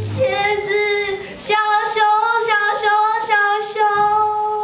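A woman's voice singing a slow melody in long held notes.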